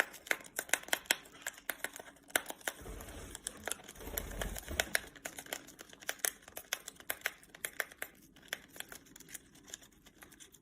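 A parrot tearing and crinkling open a tea packet, a quick irregular run of sharp crackles and small rips, with a fuller rustle a few seconds in.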